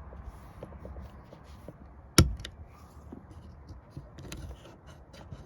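Light plastic clicks from a hook pick working at the small plastic screw cover on a car door's interior handle, with one sharp snap about two seconds in as a piece of plastic gives.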